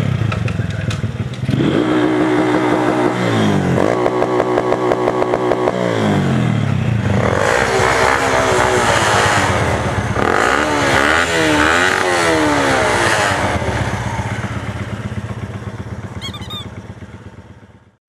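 Small motorcycles racing, a 125 cc road bike and a 140 cc pit bike: an engine accelerates hard through the gears, its pitch climbing and dropping back at each shift, three times. Then two engines are heard together at different pitches, rising and falling past each other, before the sound fades away near the end.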